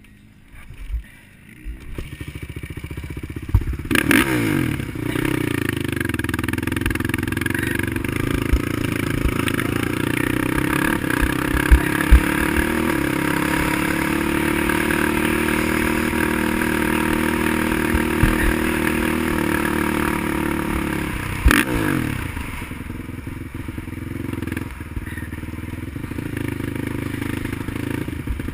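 Racing quad (ATV) engine running hard after a quiet opening couple of seconds, its pitch climbing and then holding steady. Two sharp knocks cut through it, about four seconds in and again near twenty-one seconds, and the engine is a little quieter near the end.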